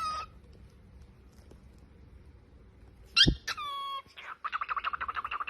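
An animal's calls: a sharp, high call about three seconds in, sliding down in pitch, then a quick run of rapid pulsed calls near the end.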